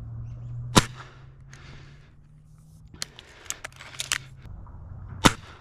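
Two air rifle shots, sharp cracks about four and a half seconds apart, with several lighter clicks between them.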